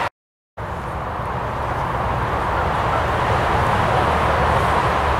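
An approaching train: a steady rushing rumble that slowly grows louder, after a brief drop to silence just after the start.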